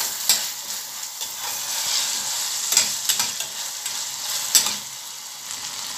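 Sliced onions and scotch bonnet peppers sizzling as they fry in palm oil in a stainless steel saucepan, stirred with a metal spoon that clinks sharply against the pan several times.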